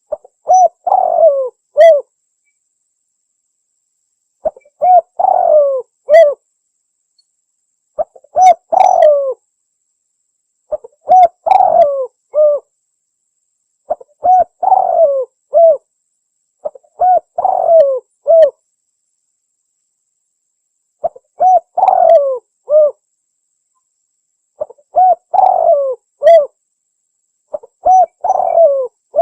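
Spotted dove (tekukur) cooing: nine repeated song phrases of several coo notes each, about one every three seconds, with dead silence between the phrases.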